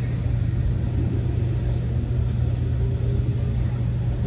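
Steady low rumble of a Nankai 50000-series Rapi:t limited express train running, heard from inside the passenger cabin.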